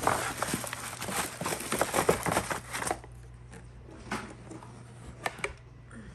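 Crinkling and rustling of packaging being handled for about three seconds, then quieter, with a few light clicks and knocks of parts being moved.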